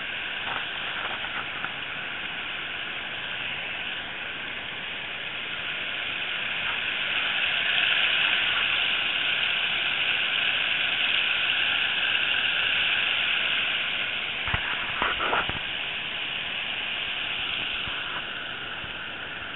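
Rushing floodwater from overflowing roadside creeks, a steady hiss that swells through the middle and eases again, with a few short knocks about fifteen seconds in.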